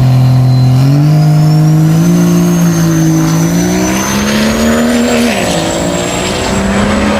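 Diesel truck engine under hard acceleration, its pitch climbing in steps with a brief dip about five seconds in, and a high whine rising along with it.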